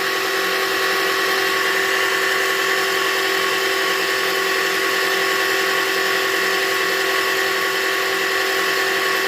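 Metal lathe running steadily: a constant motor whine with several steady tones and no change in pitch or load.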